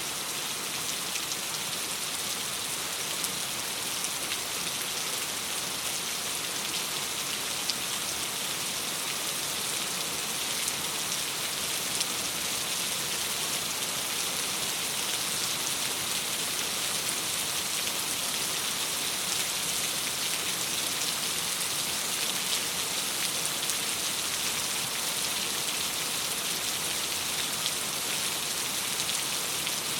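Steady rain against a window: an even hiss with many faint ticks of single drops.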